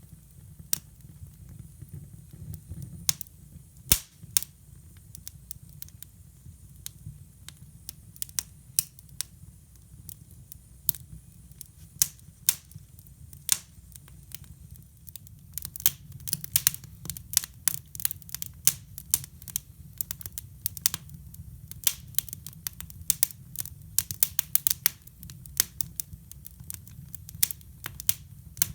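Wood fire crackling and popping in a hybrid wood-burning fireplace, sharp irregular snaps over a low steady hum. The pops are scattered at first and come much thicker from about halfway.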